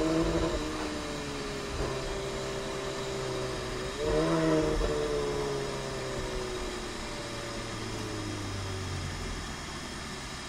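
Lamborghini Aventador SVJ Roadster's V12 engine running at low revs, with a brief rise and fall in pitch at the start and again about four seconds in; after the second, the pitch sinks slowly.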